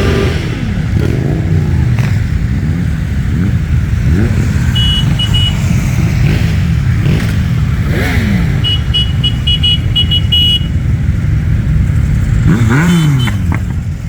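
A stream of motorcycles passing, engines rising and falling in pitch as each one goes by, with one loud pass near the end. Short runs of high, rapid beeping sound twice, about five seconds in and again around nine to ten seconds in.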